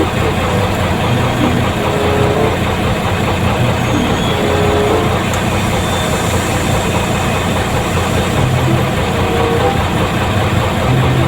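Truck engine running, a steady loud drone that does not change through the stretch.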